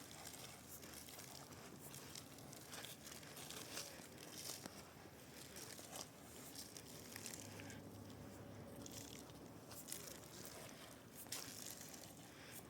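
Faint, irregular rustling and crackling, with scattered small clicks.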